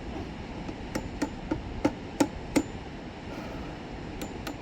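Hammering: six sharp blows in quick succession, getting louder, then two lighter blows near the end.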